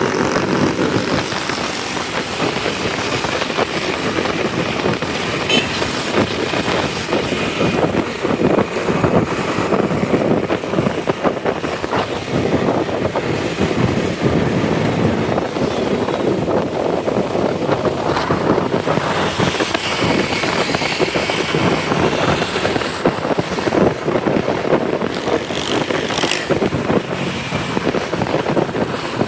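A motorcycle running at road speed with the noise of the road and surrounding traffic, heard from the pillion seat: a steady, loud rush with no breaks.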